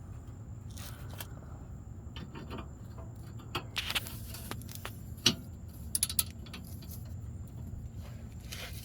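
Metal tools clicking and clinking on an exhaust hanger bolt as a wrench is worked on it. The clinks come in small clusters a few seconds apart, the sharpest about five seconds in, over a steady low hum.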